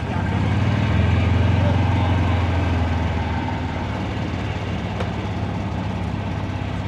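Big diesel truck engine running close by, a deep low rumble that swells loud about a second in and eases back after about three seconds to a steady running sound.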